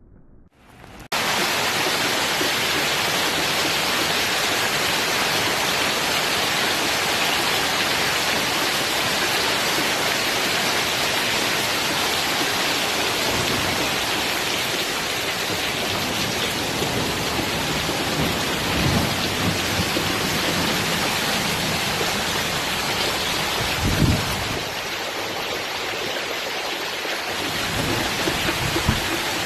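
Heavy rain pouring down in a steady hiss that starts abruptly about a second in. A couple of low rumbles come in the second half, the stronger one about four-fifths of the way through.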